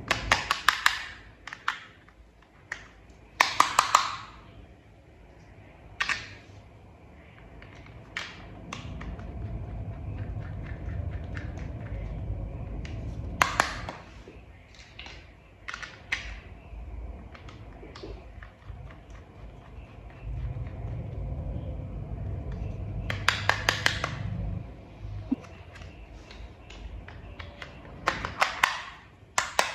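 Small plastic toy-vehicle parts being handled and snapped together: scattered sharp clicks and several quick runs of rapid clicking, with two stretches of low rumble.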